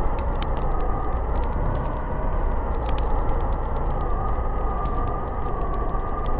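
Snowstorm wind blowing steadily with a slowly wavering howl in its pitch, over a constant low rumble, with many scattered light crackling ticks throughout.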